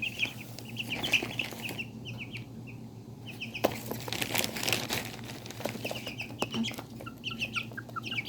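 Young chickens (a Serama and pheasant-chicken crosses) peeping in quick runs of short, high, whistle-like chirps. A second or two of rustling and scuffling, with a few sharp taps, fills the middle, and the peeping then resumes.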